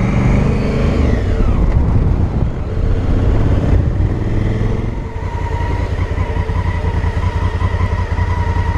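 2018 Honda Africa Twin's parallel-twin engine running under way; its note rises and then drops off over the first couple of seconds, then settles into a steady cruising drone for the rest.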